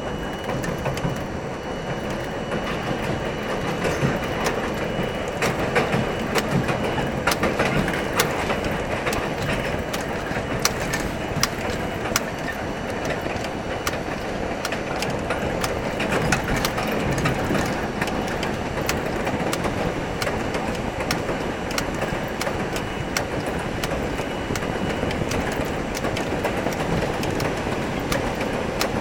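R42 subway car running along the track, a steady rumble with wheels clicking irregularly over rail joints.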